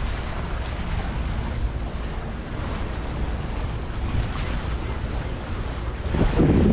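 Wind buffeting the microphone over a steady wash of water aboard a slow-moving catamaran, with a louder gust near the end.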